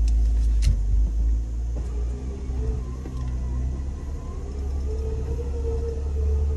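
A Jeep's engine running with a heavy low rumble, pulling against a strap tied to a tree. A whining tone rises slightly and grows stronger about four seconds in. Two short clicks sound near the start.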